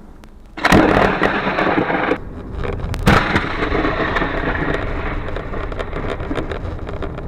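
Thunder during a heavy rainstorm: a sudden loud crack about a second in and another sharp crack about three seconds in, followed by a continuous rumble and rain noise.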